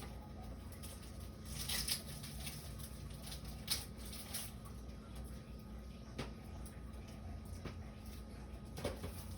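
Quiet kitchen background with a low steady hum and a handful of soft, scattered clicks and rustles, like utensils and cookware being handled.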